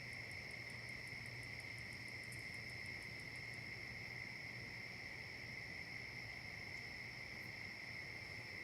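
Steady chorus of crickets and other insects: a continuous high trill that never breaks. Over it, a second, faster insect ticks very high at about six pulses a second and stops about three and a half seconds in.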